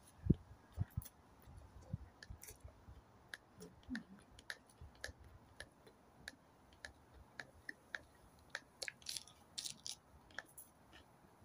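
A person eating close to the microphone: chewing with many small wet mouth clicks, and a few low thumps in the first second.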